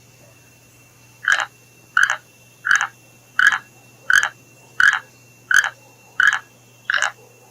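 A frog calling: nine short croaks in an even rhythm, one about every 0.7 seconds, beginning just over a second in.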